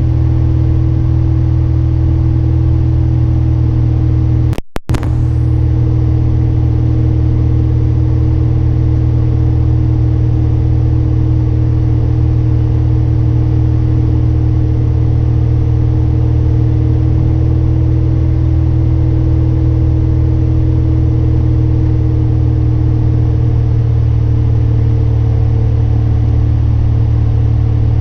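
Steady drone of a 1973 Cessna Cardinal RG's engine and propeller heard inside the cabin, with a low steady hum and a few higher steady tones above it. The sound cuts out completely for a split second about five seconds in.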